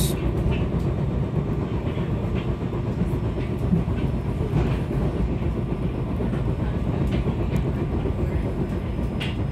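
Commuter train heard from inside the carriage while running at speed: a steady low rumble of wheels on rails, with a few faint clicks scattered through it.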